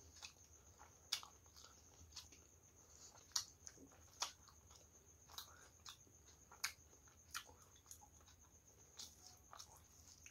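Close-up eating sounds: chewing of rice and curry with sharp, wet mouth clicks, one every second or so, mixed with soft squelches of fingers working rice into curry on a plate.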